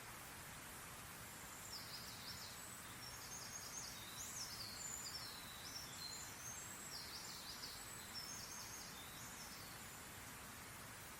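A songbird singing a rapid run of high, quick chirping notes for several seconds, faint over a steady background hiss.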